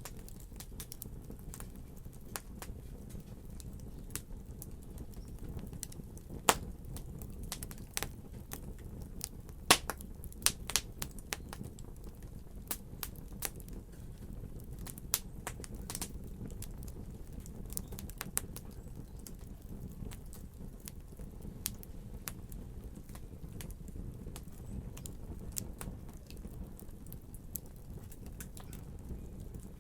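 Wood fire crackling: many sharp, irregular pops and snaps over a low steady rush of flame, busiest and loudest between about 6 and 19 seconds in.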